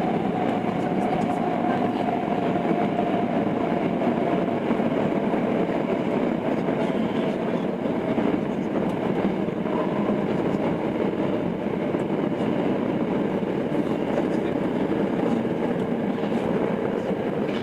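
Running noise of a Tokyo Metro 02 series subway train with IGBT inverter control, heard from inside the car: steady wheel and rail noise with a faint motor tone that falls slowly in pitch as the train loses speed.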